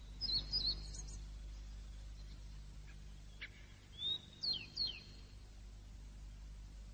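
Birds chirping in short groups of quick up-and-down chirps, a few times over a faint steady low background.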